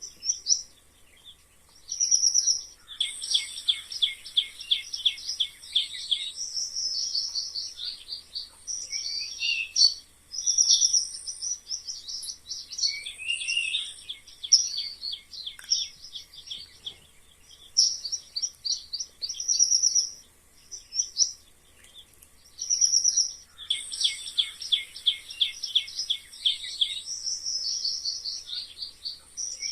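Mice squeaking: short high-pitched chirps and rapid trilled runs of squeaks, coming in bursts with brief gaps. The same run of calls comes round again about twenty seconds later, as in a looped track.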